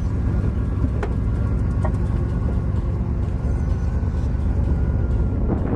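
Car engine running with a steady low rumble, and a single sharp click about a second in.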